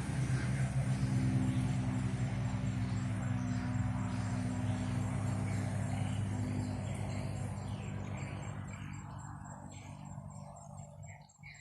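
A motor vehicle's engine running with a steady low hum, slowly fading away as it moves off. A high insect chirp pulses regularly, coming through clearly near the end as the engine dies away.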